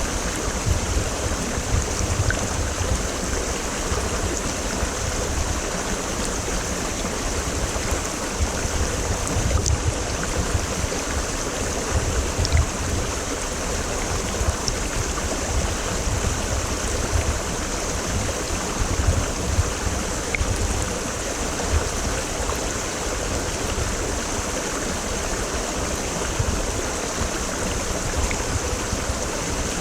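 A mountain stream rushing steadily over rocks, a continuous even wash of water noise with a deep rumble underneath.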